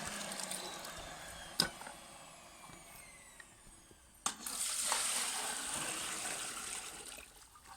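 Kärcher WD3 Premium wet-and-dry vacuum drawing up pool water with a rushing hiss. The hiss dies down over the first four seconds, a sharp click comes about four seconds in, and it swells again before fading out near the end.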